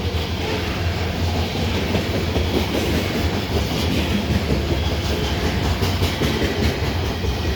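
Freight train rolling past with a steady low rumble and wheels clicking over the rail joints.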